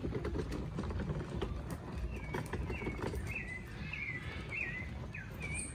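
A bird calling a quick run of short chirps that bend in pitch, starting about two seconds in, over the footsteps and rustle of people walking.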